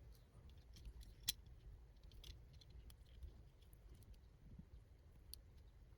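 Near silence with a few faint, scattered small clicks of small parts and wiring being handled, one a little sharper about a second in.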